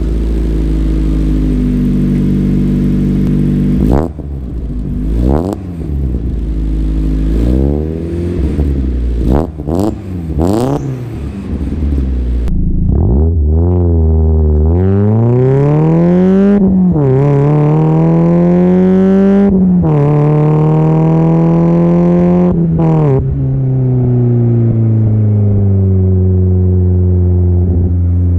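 A 1999 Mazda Miata's four-cylinder engine running through a newly fitted ISR catback exhaust, with a very bassy note. It is blipped in several short, quick revs, then revved up and held higher for a few seconds at a time, and settles back to a steady idle near the end.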